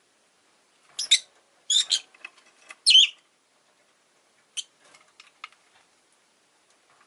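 Rosy-faced lovebird chirping: three loud, shrill chirps in the first three seconds, then a few softer chirps and small clicks.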